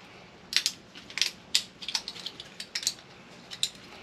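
Hand tools working on microwave parts: a dozen or more short, sharp metallic clicks and snips at irregular intervals.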